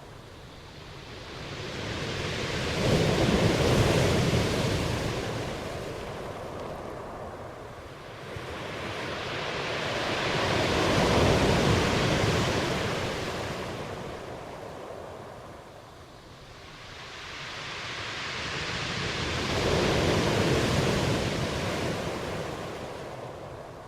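Ocean waves washing in, three times, each swelling to a peak and then fading away, about every eight to nine seconds.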